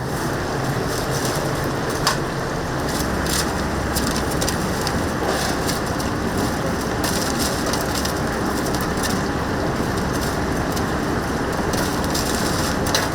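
Chicken cooking with a steady sizzling hiss and scattered sharp crackles and pops.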